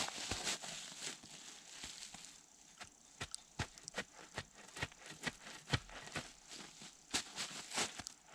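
Irregular sharp knocks and clicks from work on logs, some coming close together, the loudest about two-thirds of the way in and near the end.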